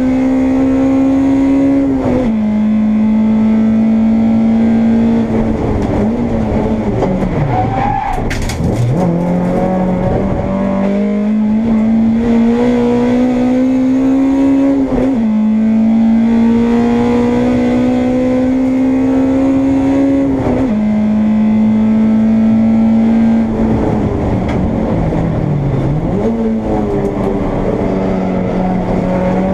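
Honda Integra race car's four-cylinder engine at racing speed, heard from on board. The revs climb and drop sharply at each upshift, twice more in the second half. There are two braking phases where the revs fall away, the first with a quick throttle blip on the downshift about eight seconds in, the second near the end.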